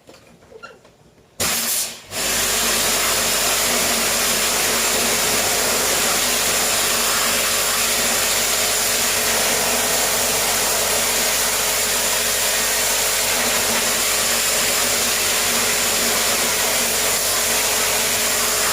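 Portable high-pressure washer running and spraying water steadily onto the air conditioner's parts, with a loud even hiss over a motor hum. It starts about a second and a half in after a brief quiet, falters once just after, then holds steady.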